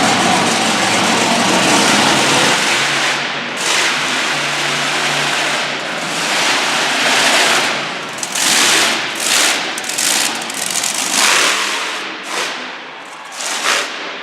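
Monster truck engine running loud and hard, then revved in a string of short surges through the second half.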